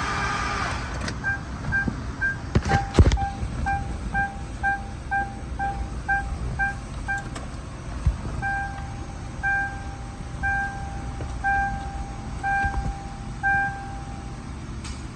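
Car warning chime beeping repeatedly, quick short beeps at first, then slower, longer tones about once a second. A rush of noise stops about a second in, and a couple of sharp knocks, the loudest sounds, come about three seconds in.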